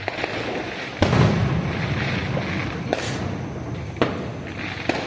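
Aerial firework shells bursting: a loud boom about a second in that rolls on in a long rumbling echo, then single sharp bangs at roughly one-second intervals near the end.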